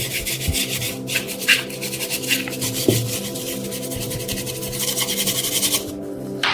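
Fast abrasive rubbing on the steel of an old knife blade being sanded down, a continuous rasping run that stops about a second before the end, over background music.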